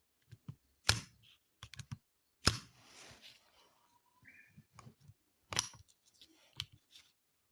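Irregular sharp clicks and knocks of small hard objects being handled, five or six loud ones with fainter ticks between.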